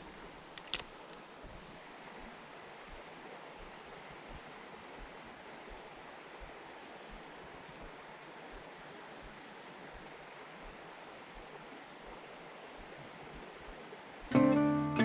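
Insects trilling in one steady high, even tone over a steady hiss. Acoustic guitar music comes in near the end.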